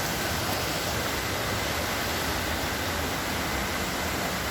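Waterfall rushing, a steady, unbroken noise.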